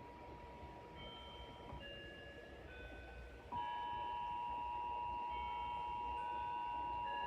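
Emergency Alert System attention signal, a steady two-note alarm tone announcing a severe thunderstorm warning. It drops out about two seconds in and comes back louder about a second and a half later, with short higher beeps changing pitch over it.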